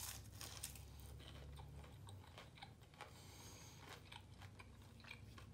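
Faint chewing of fried chicken, with scattered small crunches and mouth clicks over a low steady hum.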